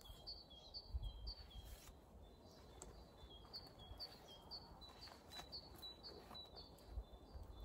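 Faint bird song: a small songbird repeating a short high two-note phrase about twice a second, in two runs with a short break between them, over a few low rumbles.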